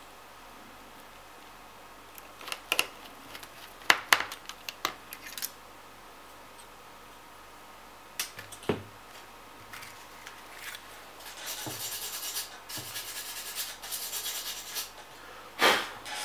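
Small tools and parts being handled on a workbench: scattered sharp clicks and taps, then a few seconds of high scratching and rubbing, and a louder knock near the end.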